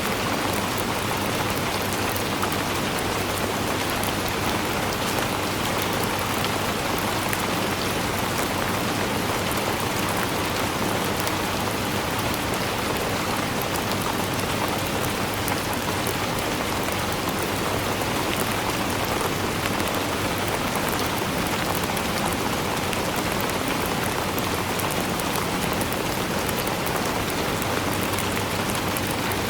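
Steady rainfall: a dense, even hiss of rain with many small drop ticks in it, unchanging throughout.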